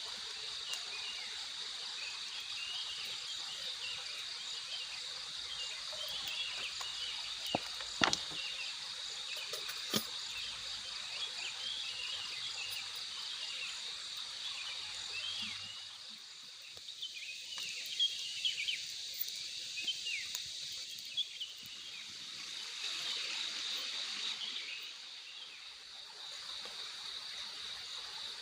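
Night-time tropical forest ambience: a steady, high, pulsing insect trill with many short chirps from other insects or frogs. Two sharp knocks stand out, about eight and ten seconds in.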